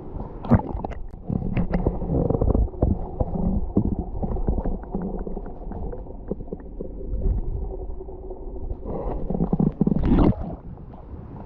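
Muffled underwater sound from a submerged waterproof camera: gurgling and bubbling water with many small clicks and knocks, and a louder rushing splash about nine to ten seconds in.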